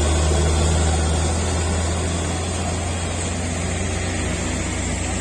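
Heavy truck engine running with a steady low drone, gradually getting quieter.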